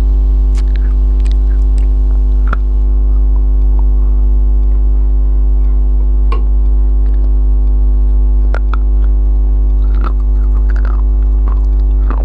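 Loud steady electrical mains hum, a buzz carried on the recording, with scattered soft clicks and smacks of someone eating biryani and chewing.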